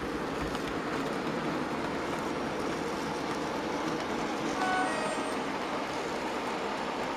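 Model Belgian locomotive running on a model railway layout: a steady running rumble of the train on the track. About five seconds in a brief two-note horn sounds.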